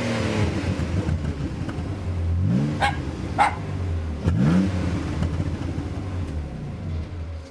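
Alfa Romeo Spider's 3.0 V6 with a Ragazzon exhaust idling and blipped twice, each rev rising quickly and dropping back to idle. Two short sharp sounds come about three seconds in.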